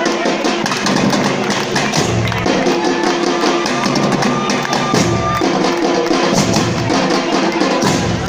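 Samba batería drumming: fast, dense percussion strokes over deep bass-drum beats that come every couple of seconds.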